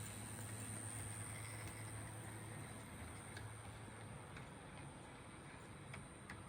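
HO scale brass CNJ Camelback 4-6-0 model locomotive running on track: a faint steady motor hum that fades after about four seconds, a thin high whine, and a few scattered clicks from the wheels on the rails.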